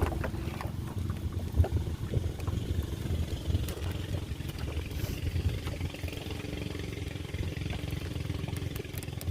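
A motor running steadily with a low rumble and a faint held hum in the second half.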